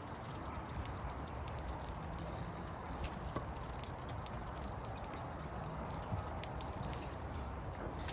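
Water trickling and dripping, many small drips over a steady low rumble.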